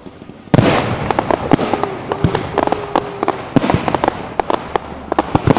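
Fireworks going off: about half a second in, a loud burst starts a dense, rapid run of bangs and crackling pops that keeps going.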